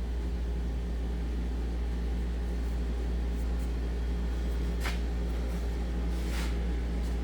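A steady low mechanical or electrical hum, with two faint light clicks near the middle.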